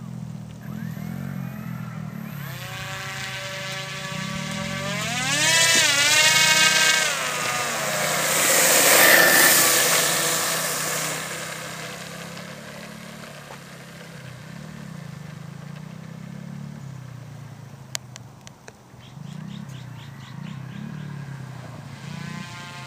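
RC model airplane's motor and propeller whining as the plane taxis on the ground, the throttle going up and down so the pitch rises and falls; loudest a few seconds in, then settling back to a low running hum. A sharp click near the end.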